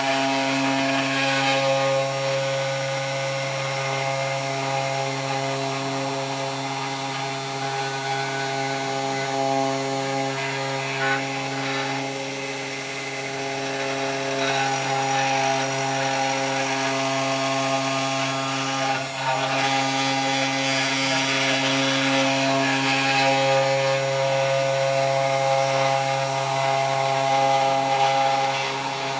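CNC 3018 Pro router's spindle running with a steady whine while its bit cuts wood, the cutting noise swelling and easing with the load and dipping briefly about two-thirds of the way through.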